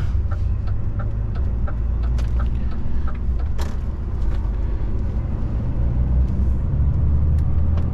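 DAF XF 480 truck's six-cylinder diesel engine heard from inside the cab, a steady low rumble as the truck pulls away under power, its pitch rising toward the end. A faint regular ticking, two to three times a second, runs over it.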